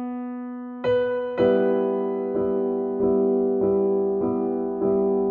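Background music: soft electric piano playing a held chord, then repeated chords struck at an even slow pace, each note ringing on and fading.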